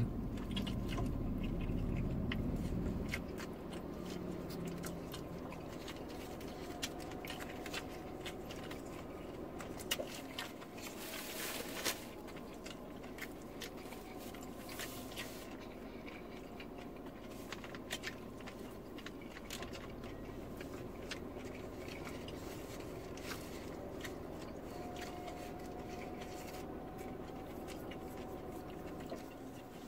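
Close-up chewing and biting as people eat shawarma, with scattered short clicks and rustles over a steady low hum.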